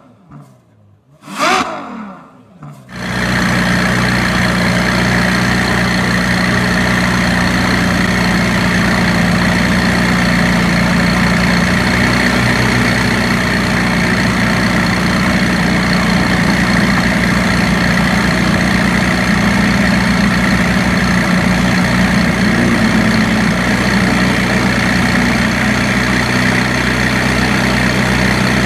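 A brief rev blip from a Ferrari FF's V12 about a second in. Then, from about three seconds, the McLaren 675LT's 3.8-litre twin-turbo V8 idles steadily and evenly.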